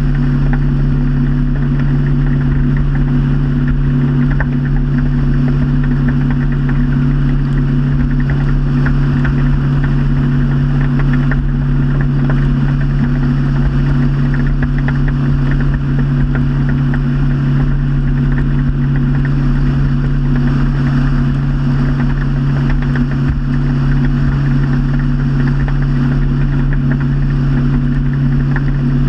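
Motorboat engine running at a steady cruising speed: a constant, even drone with a rushing noise over it and no change in pitch.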